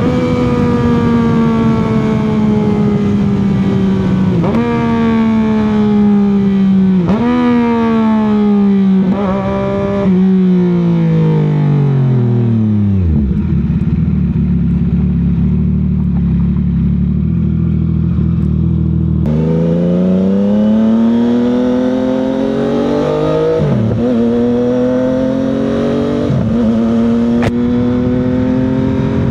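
CFMOTO 675 sport bike's inline three-cylinder engine and exhaust on the move: the revs jump up in several quick steps as it downshifts and slows, drop away to a steady idle for about six seconds, then climb again as the bike pulls away and accelerates through the gears.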